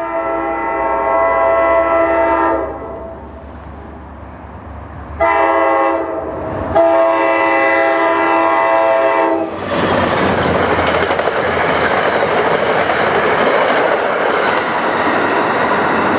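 Diesel locomotive air horn sounding a chord of several notes in a crossing pattern: a long blast, a shorter one, then another long one, from an NJ Transit GP40FH-2 approaching at speed. About ten seconds in, the horn stops and the train passes close by at speed, with a loud, steady rush of wheel and rail noise and clickety-clack over the rail joints.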